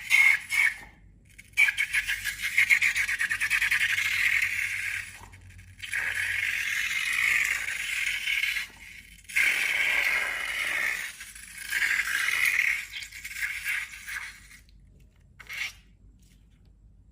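Rapid crackly scraping of slime being worked, in several stretches a few seconds long with short breaks between them.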